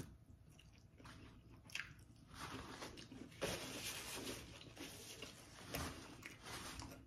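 Faint chewing of a mouthful of birria pizza dipped in consommé, with a paper napkin rustling partway through as hands and mouth are wiped.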